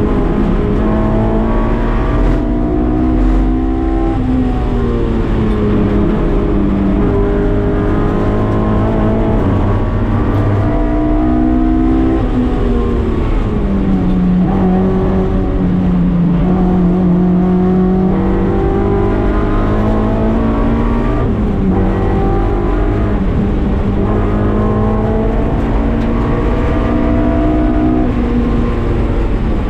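Honda K24 four-cylinder in a Mazda MX-5 Miata pulling hard on track, its note climbing steadily through each gear and dropping sharply at several upshifts.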